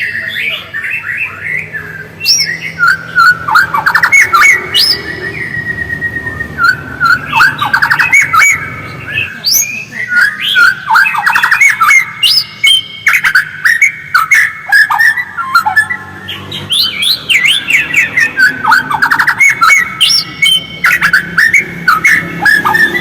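White-rumped shama singing a continuous, rapid twittering song of fast trills and chattered phrases, one after another with hardly a pause.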